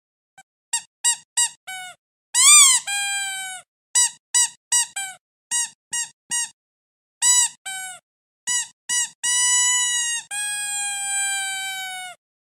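Squeaky dog toy squeezed over and over, giving a string of high squeaks. First come quick short squeaks, then longer drawn-out ones, each dropping in pitch as it ends; the last two are long squeals of over a second each.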